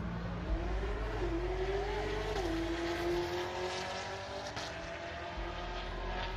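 Drag race car accelerating down the strip: the engine note climbs, drops suddenly twice in the first few seconds as it shifts gears, then holds steady.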